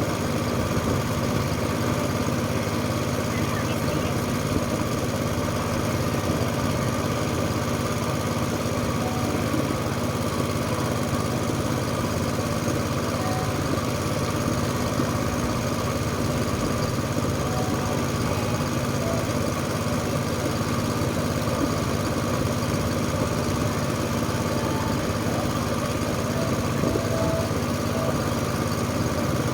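Small tour boat's engine running at a steady speed while the boat cruises across the lake.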